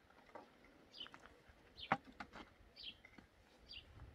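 A bird repeating short, high chirps that fall in pitch, about one a second, with scattered sharp clicks and knocks, the loudest about two seconds in.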